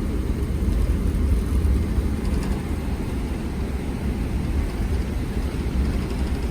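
Steady low rumble of a Boeing 777-300ER airliner heard from inside the passenger cabin, with no distinct events.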